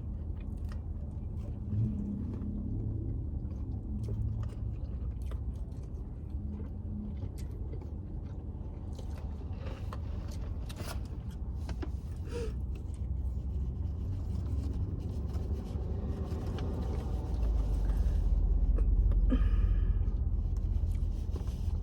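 A steady low rumble, as inside a car, growing louder for a few seconds near the end, with scattered small clicks and crinkles of people eating fast food.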